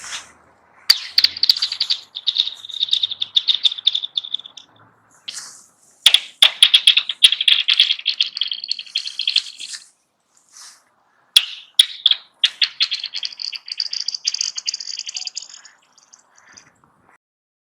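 Pebbles skipped across frozen pond ice. Each throw lands with a sharp click, then a fast run of high, metallic chirping pings as the stone skitters over the ice. There are three throws about five seconds apart, and the pitch of the last one rises as it goes.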